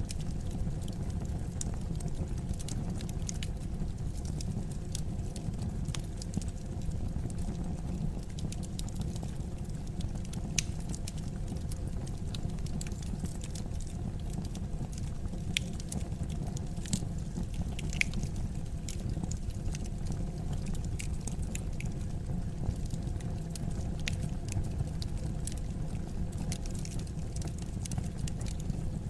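Wood fire in a fireplace crackling: many small sharp pops and snaps, a few of them louder, over a steady low rumble of the burning logs.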